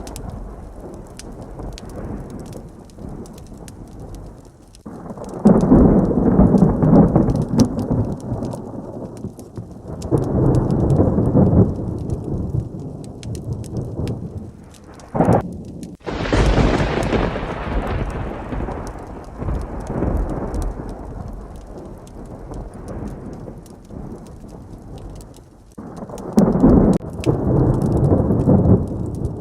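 Thunderstorm: steady heavy rain with thunder rolling in several low rumbles, and one sharp, close thunderclap crack about halfway that breaks into a long loud peal.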